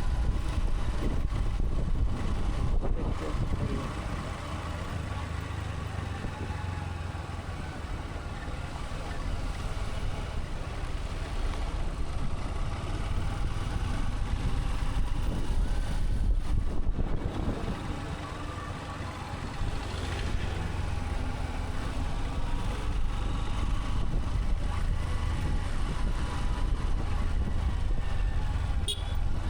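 Motorcycle engine running under way: a steady low rumble with a dip in loudness around five seconds in and again near eighteen seconds.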